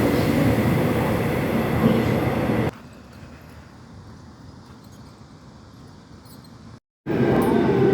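Subway train running, a steady loud rumble of the moving train. It cuts off abruptly about two and a half seconds in to a much quieter stretch with a faint steady high tone, drops out completely for an instant near the end, then the loud running noise resumes.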